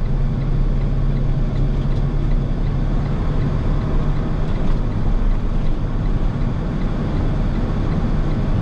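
Delivery truck's engine running steadily under road noise while driving, a continuous low hum with a slight change in engine note about three seconds in.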